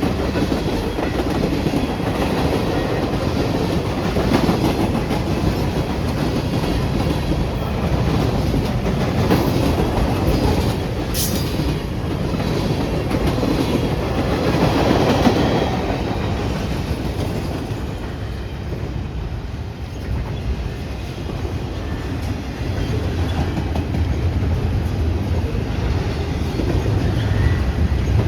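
A train rolling past, its wheels clattering steadily over the rails, with a heavier low rumble building near the end.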